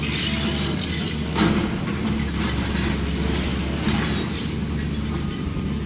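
Heavy demolition machinery with a steady low engine drone and grinding noise, and two louder crunches, one about a second and a half in and one near four seconds.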